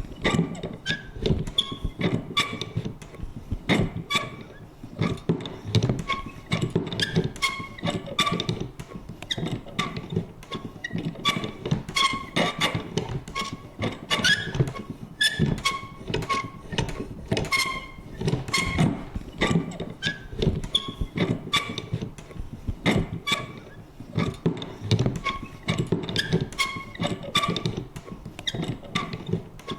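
Vintage paper punch worked over and over: a busy, uneven run of clunks and clicks, several a second, with short high creaks and squeaks between them.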